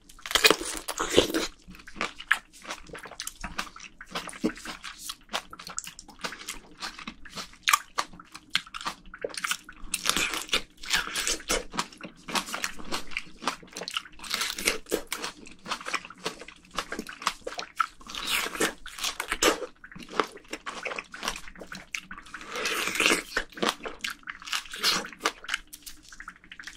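Close-miked eating of a juicy yellow-fleshed plum: a crisp bite right at the start, then steady chewing with several more bites, the loudest at about 10, 14, 18 and 23 seconds in.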